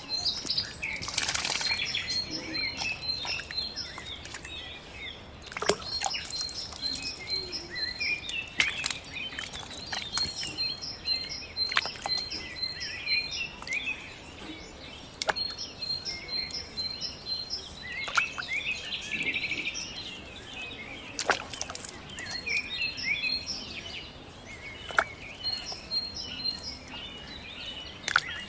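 Birds chirping in repeated runs of short, high notes, with occasional sharp clicks.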